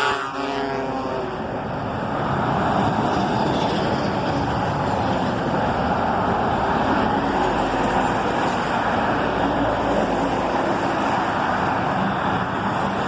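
Convoy of Scania trucks driving past, a steady, loud mix of diesel engines and road noise. A tone falling in pitch fades out in the first half-second.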